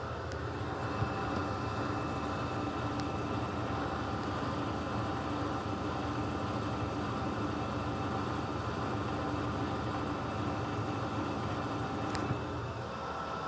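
Electrolux LTC15 top-loading washing machine running its wash cycle: a steady motor hum that eases off about a second before the end.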